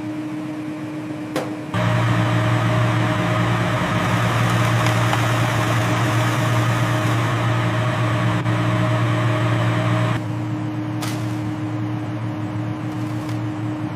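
Industrial sealing machine running with a steady mechanical hum. About two seconds in, a sharp click brings in a louder, deeper drone that holds for about eight seconds, then cuts back to the lower hum with a click. A single click comes near the end.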